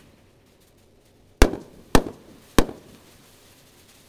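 Three loud bangs from a large 2.25-inch firework cake's aerial shells, about a second and a half in, half a second later, and again about two and a half seconds in, each fading in a short echo.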